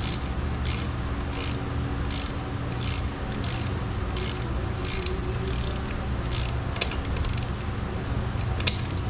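A hand socket ratchet being worked in short, even strokes, each stroke a brief burst of pawl clicking about every 0.7 seconds, with a quicker run of clicks about seven seconds in. A steady low hum runs underneath.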